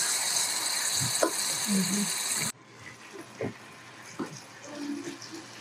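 Chopped tomatoes sizzling as they sauté in hot oil in a stainless steel pot, with a couple of knocks from a wooden spoon stirring. About two and a half seconds in, the sizzle cuts off suddenly, leaving faint knocks and room sound.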